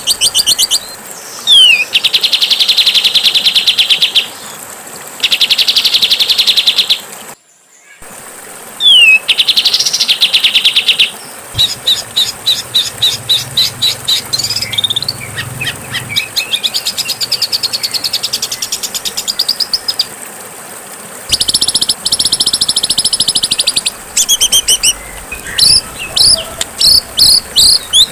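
Songbird song from an edited bird-training recording: loud, rapid trills in blocks of one to two seconds, repeated again and again, with short downward-sliding whistles between them. There is a brief dropout about seven and a half seconds in, and the song breaks into quick separate chirps near the end.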